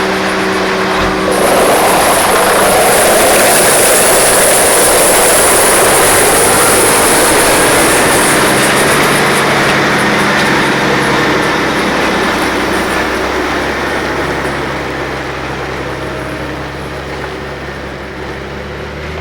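Heavy diesel logging equipment running loud, with a dense mechanical rumble and a high hiss over the first several seconds, growing gradually quieter in the second half.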